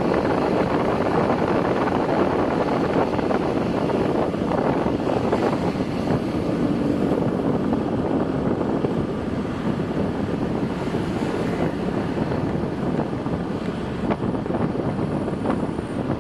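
Steady road noise from a moving vehicle, with wind rushing over the microphone.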